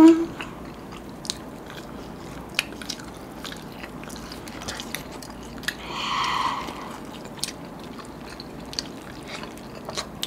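Close-miked eating sounds: chewing and biting into fried fast food, with scattered sharp crisp clicks. A brief louder sound comes about six seconds in.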